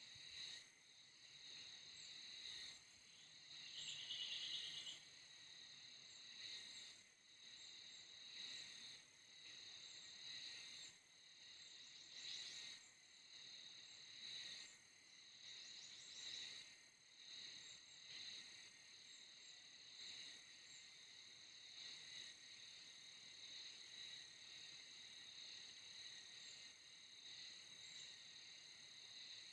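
Faint chorus of insects chirring in steady high-pitched bands that swell about once a second. A brief denser buzz comes a few seconds in, and two quick high trills come near the middle.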